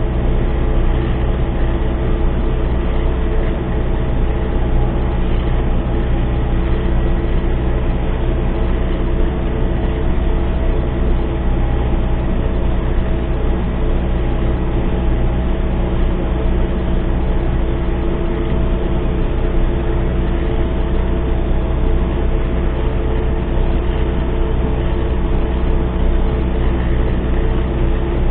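MTZ-892 tractor's four-cylinder diesel engine running steadily under load while pulling a seed drill through the field, with an even, unchanging drone.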